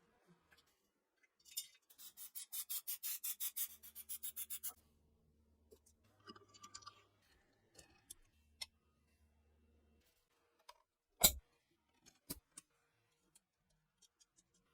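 Hand work on metal parts: a quick run of short rasping strokes, about five a second, for about three seconds, then scattered small clicks and one sharp metallic clack about eleven seconds in.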